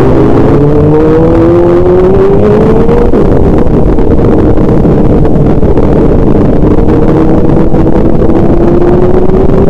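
A vehicle engine running under way over heavy low rumble. Its pitch climbs over the first few seconds, holds steady, then rises slightly near the end.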